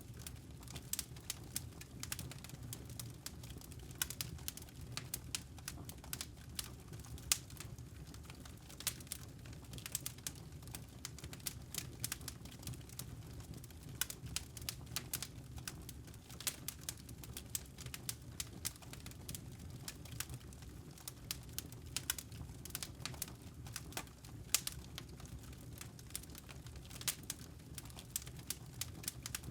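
Burning firewood crackling, with irregular sharp pops over a low steady rumble.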